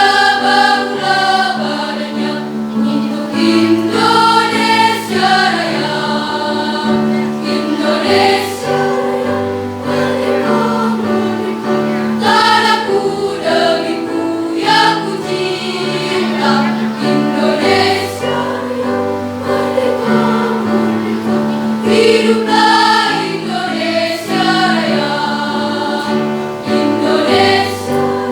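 High-school choir singing a patriotic song in several-part harmony over held low notes, without pause.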